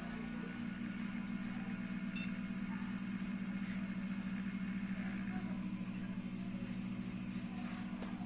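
Steady electrical-machine hum, like a fan or power supply running, with one short high-pitched beep about two seconds in.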